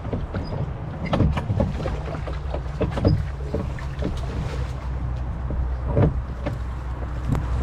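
Water splashing and slapping in quick, irregular strokes around a small rowboat on a river, over a steady low wind rumble. A few faint bird chirps come in during the first few seconds.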